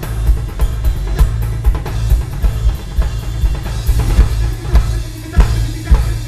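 Live band playing an instrumental passage with no singing, driven by a drum kit's kick and snare over heavy bass.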